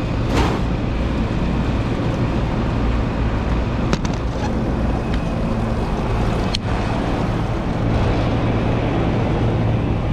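Refrigeration condensing unit running steadily just after being switched back on, its compressor and condenser fan giving a steady hum and rush of air through a coil freshly sprayed with coil cleaner. Two sharp clicks about four and six and a half seconds in.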